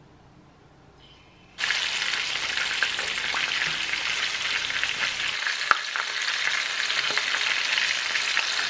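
Cornstarch-coated shrimp going into hot vegetable oil: near quiet at first, then about a second and a half in a sudden, steady sizzle of deep frying starts and carries on.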